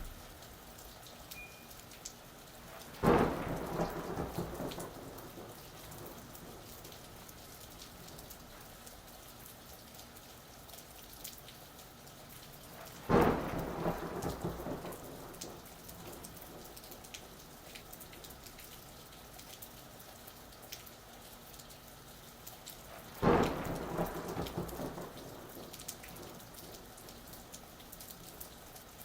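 Steady rain falling, with three sudden thunderclaps evenly spaced about ten seconds apart, each rumbling away over a couple of seconds.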